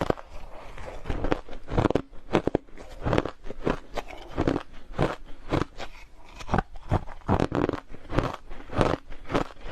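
Close-miked biting and chewing of hard crushed ice: a quick, irregular run of sharp crunches, several a second.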